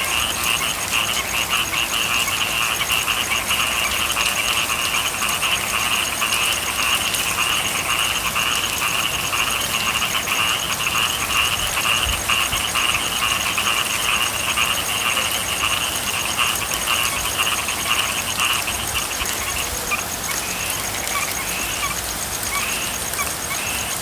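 A dense chorus of frogs calling without pause over the steady hiss of rain. About twenty seconds in, the chorus thins out into separate, spaced calls.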